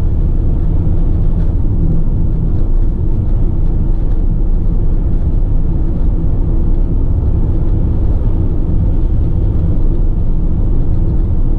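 Ford Transit tipper's diesel engine and road noise heard from inside the cab while driving at steady speed: an even, low rumble.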